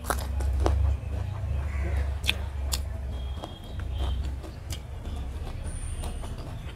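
A person chewing a mouthful of rice and curry close to the microphone, with scattered sharp mouth clicks and smacks over a low, steady rumble.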